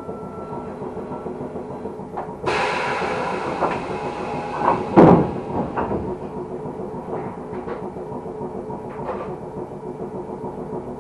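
Fukui Railway Fukubu Line train running on its track, heard from inside the car: a steady motor hum with clicks of the wheels over the rails. A hiss starts a couple of seconds in and ends with a loud thump about halfway through.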